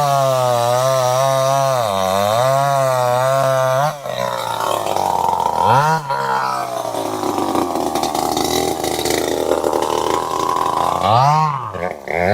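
Two-stroke chainsaw engine running at high revs with a steady tone that dips briefly about two seconds in. About four seconds in the clean note gives way to a rougher, noisier sound for several seconds. Near the end the revs fall and climb back to the steady tone.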